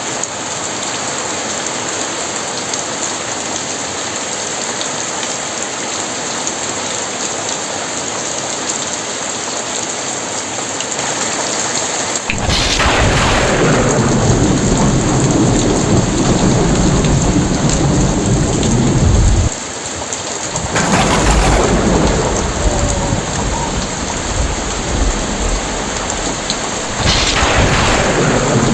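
Heavy rain falling steadily in an even hiss. A little before halfway, thunder breaks in suddenly with a deep rumble lasting several seconds. Further peals of thunder follow about two-thirds of the way in and again near the end.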